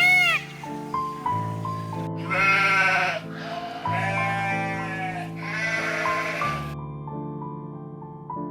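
Three long, wavering bleats, each about a second, over background piano music, after one short call right at the start.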